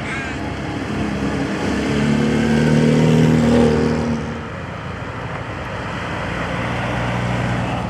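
A car engine running as the car drives past, getting louder to a peak about three and a half seconds in and then fading away.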